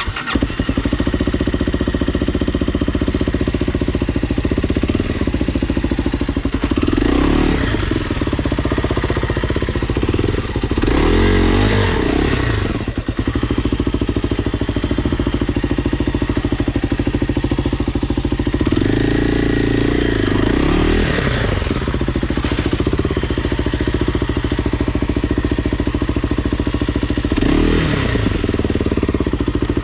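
Dirt bike engine running hard and continuously, its revs dropping and climbing again four times as the throttle is rolled off and back on.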